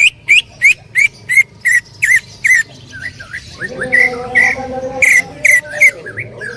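Green leafbird (cucak ijo) singing loudly: a rapid run of sharp, sweeping whistled notes, about three a second, then a softer varied stretch and a second loud run of notes about four seconds in.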